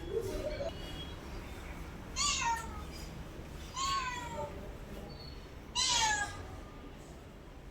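Domestic cat meowing three times, a second or two apart, each meow falling in pitch; the last is the loudest.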